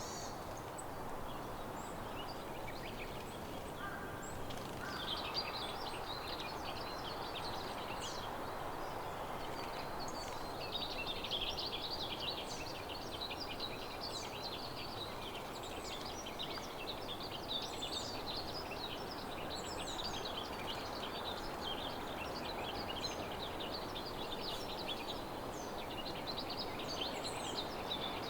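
Small songbirds twittering in many quick, high chirps over a steady background hiss. The chirping picks up about five seconds in and grows denser partway through.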